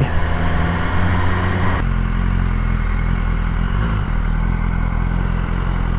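Motorcycle engine running at a steady speed; the sound changes abruptly about two seconds in.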